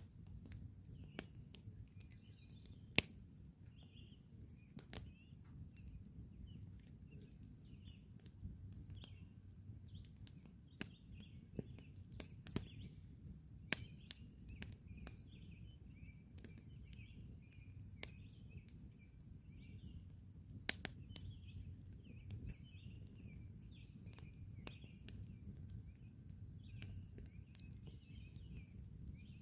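Campfire crackling, with irregular sharp pops over a low, steady noise; two pops, about 3 s and 21 s in, stand out above the rest. Birds chirp and twitter in the background throughout.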